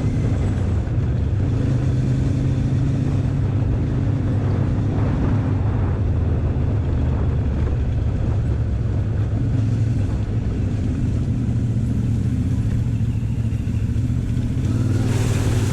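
Motorcycle engine running steadily under way, a constant low drone that holds an even pace.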